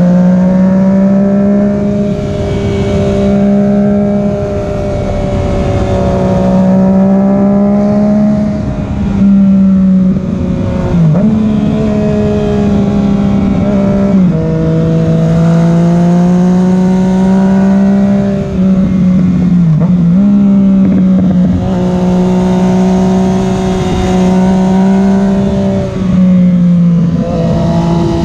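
Yamaha FZ-09's 847 cc inline three-cylinder engine running under way, its note rising and falling with the throttle. Several sudden pitch steps mark gear changes, over a rush of wind noise.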